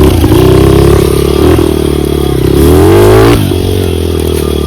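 Dirt bike engine running under way, revving higher for about three seconds, then dropping abruptly to a steadier, lower pitch.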